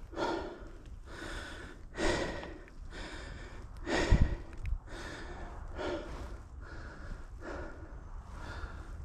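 A mountain-bike rider breathing hard in rhythmic puffs, about one breath a second. There is a louder thump about four seconds in.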